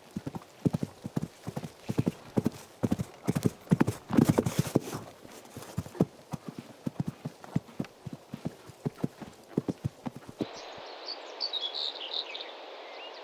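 Horses' hooves galloping on the ground: many quick, irregular hoofbeats, loudest about four seconds in. About ten seconds in they cut off, giving way to a steady outdoor ambience with faint high chirps.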